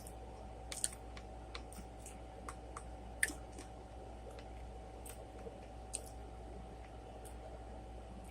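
Close-miked eating: faint mouth clicks and smacks of chewing, scattered a second or so apart, a few louder than the rest, over a steady low electrical hum.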